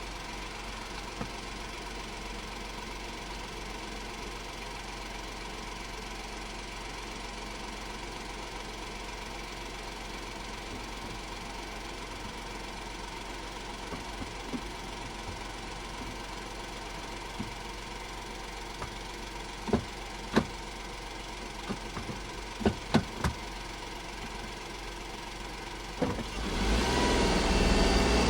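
Honda S660's small three-cylinder turbo engine idling steadily, with a few short sharp clicks in the second half. Near the end the engine revs up, rising in pitch and getting louder.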